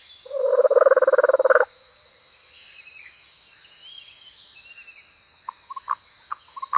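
A frog calling once, a rapid pulsing croak about a second long, over a steady high-pitched insect drone. Near the end, a few short, quick water plops and drips.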